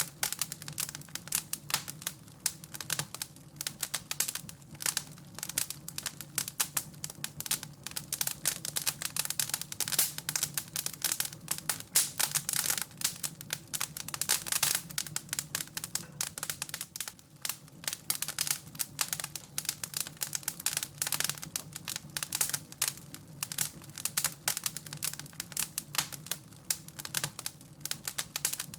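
Wood fire in a fireplace crackling and popping, a dense, irregular run of sharp snaps over a steady low hum.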